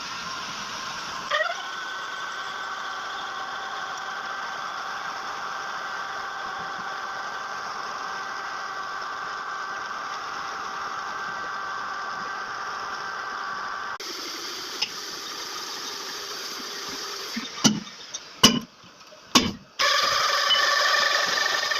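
Toyota 15B four-cylinder diesel engine running steadily. Near the end there are several sharp, loud thumps, then a louder, noisier stretch.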